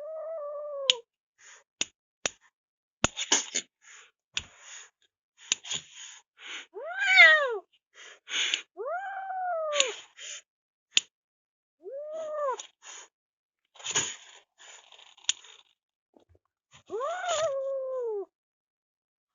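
A cat meowing five times, each a drawn-out call that rises and then falls in pitch. Sharp clicks and short rustling noises come between the meows.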